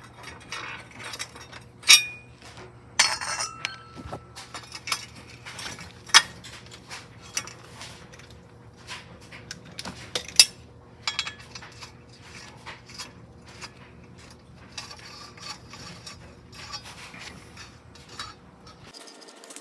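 Metal hand tools and bolts clinking and knocking against car parts in irregular sharp clicks, a few ringing briefly, as parts are unbolted from the engine.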